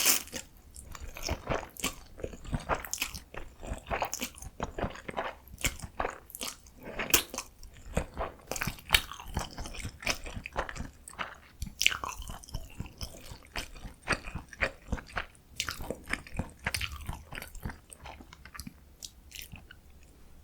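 Close-miked eating of bibim noodles: steady chewing with many sharp, wet mouth clicks and smacks, one loud smack at the very start.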